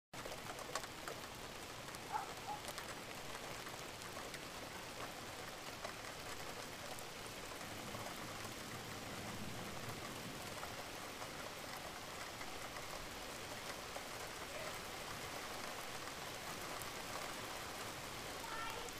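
Steady rain falling, an even hiss with a few louder drop taps in the first few seconds.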